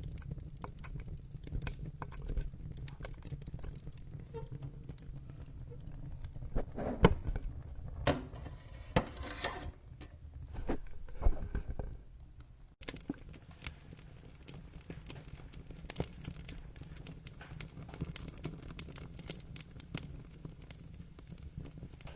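Wood fire crackling and popping over a steady low rumble, with a louder patch holding a short pitched sound around the middle.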